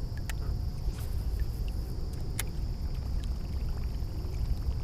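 Wind buffeting the microphone in a steady low rumble, over a thin steady high hum. Two faint sharp clicks come through, one just after the start and one about halfway through.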